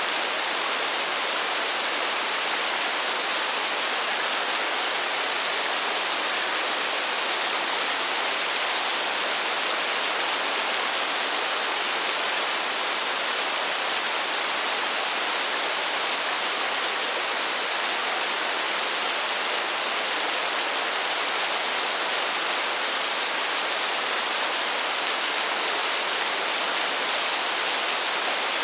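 Steady rain falling in a forest, an even hiss with no single drops standing out.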